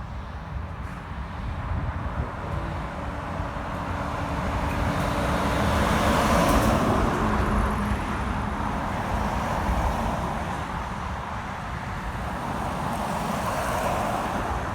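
Heavy truck driving past: engine and tyre noise build to the loudest point about halfway through, the engine note dropping in pitch as it passes, then fade, with another vehicle approaching near the end.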